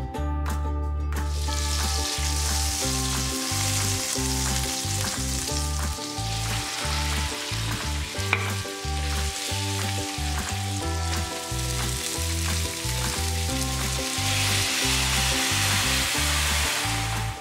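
Chicken pieces frying in foaming butter in a stainless steel pan: a steady sizzle that starts about a second in and grows louder near the end as the honey-soy sauce goes in. There is a single sharp click about eight seconds in. Cheerful ukulele background music plays underneath.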